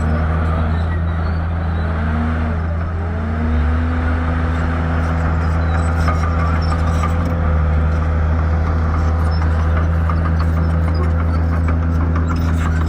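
Shantui bulldozer's diesel engine running hard, its note dipping and rising twice in the first few seconds and then holding steady, with a steady crackle over it.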